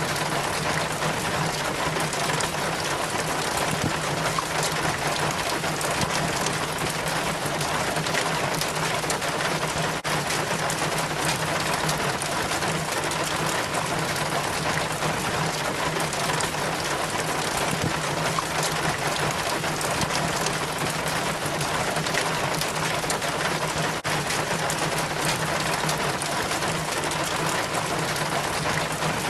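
Rainwater trickling and dripping down a rain chain from a roof gutter: a steady, dense patter of many small drops and splashes, with a constant low hum underneath.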